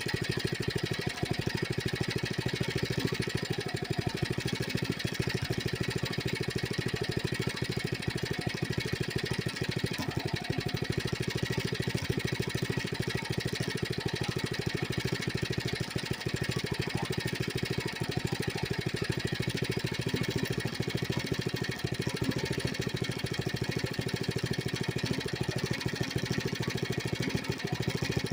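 Small engine of a Coleman CC100X mini bike running steadily with a fast, even firing beat and no big changes in speed.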